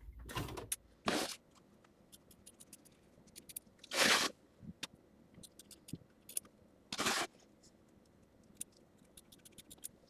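Small scissors cutting fabric: four short snipping swishes, with light clicks of the blades between, as excess appliqué fabric is trimmed close to the tack-down stitching.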